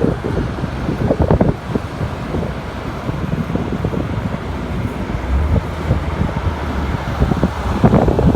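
Steady road and traffic noise, with wind buffeting the microphone in irregular gusts.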